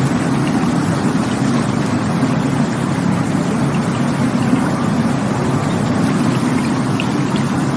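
Rushing water, a steady, unbroken rush with most of its weight in a low rumble.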